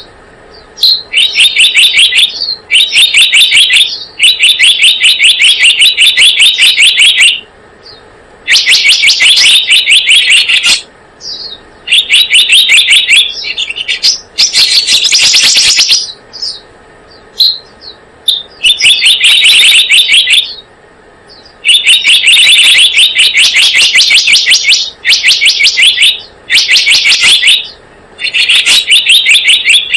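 Lure-call recording of the selendang biru bird: loud, rapid pulsed trills in repeated bursts of one to three seconds, with short gaps between them.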